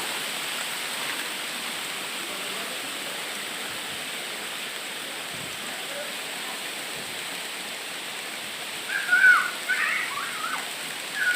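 Steady hiss of volcanic sand falling like rain during a Mount Merapi eruption. A few short, higher sounds break in near the end.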